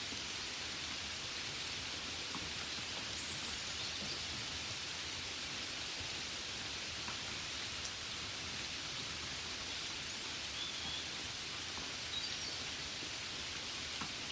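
Gentle steady rain on a window: an even hiss with faint scattered drop taps.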